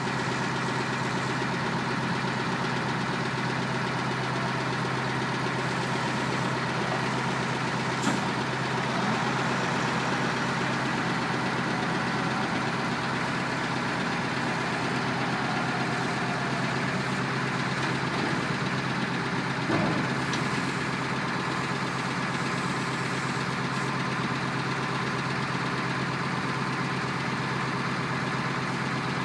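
Heavy truck engine idling steadily, a constant low hum with a couple of faint clicks.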